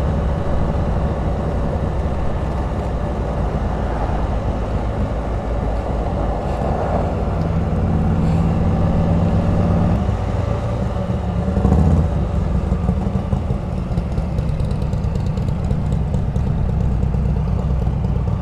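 Can-Am Spyder RT three-wheeled motorcycle's engine running with road noise while riding at town speed, slowing toward walking pace; a brief louder swell about twelve seconds in.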